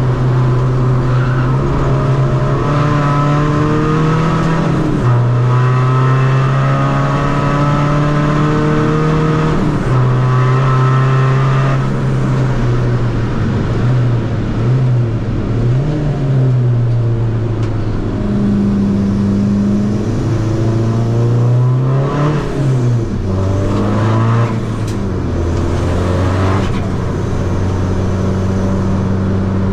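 Tuned 2.0 common-rail diesel engine of a Seat Ibiza FR driven hard on track, its note climbing under load and dropping sharply at upshifts about five and ten seconds in. Later the revs rise and fall quickly several times as the car shifts down and gets back on the throttle.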